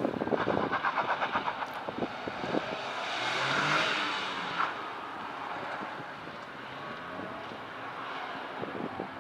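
Nissan Fairlady Z (Z34) V6 engine working hard on a gymkhana run. It pulses in the first two seconds, swells loudest about three to four seconds in as the car passes, then fades as it pulls away.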